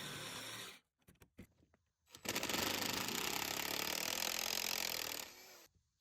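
Power saw cutting through a rotted wooden deck railing, a dense buzzing with a fast, even stroke. It cuts off abruptly just under a second in, returns about two seconds in, and stops again shortly before the end.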